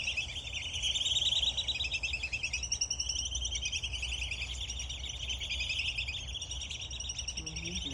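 Black-bellied whistling ducks calling: a steady chatter of many overlapping high, rapid whistles from the flock.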